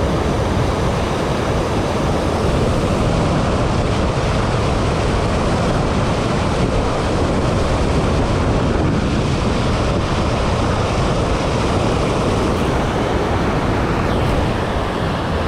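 Steady, loud rush of river water spilling over a low-water dam, an even roar with no breaks.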